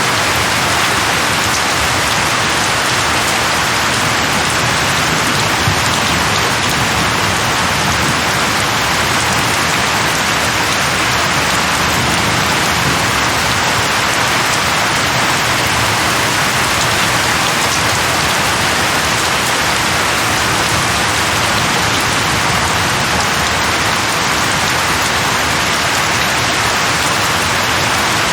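Steady heavy rain falling on a surface, an even hiss with faint drop ticks in it.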